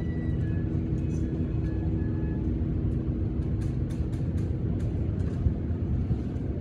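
Steady low rumble of vehicle noise with a faint steady hum, and a few faint sharp clicks about halfway through.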